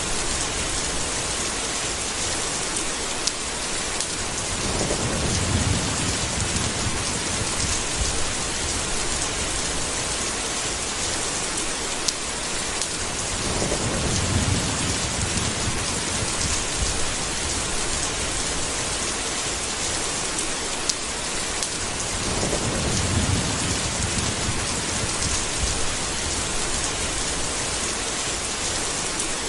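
Steady rain hissing, with low rolls of thunder swelling up three times, about nine seconds apart.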